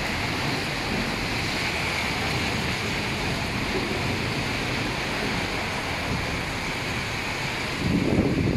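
Heavy rain pouring steadily onto a wet paved street, an even hiss. Near the end, wind starts buffeting the microphone with a louder, uneven rumble.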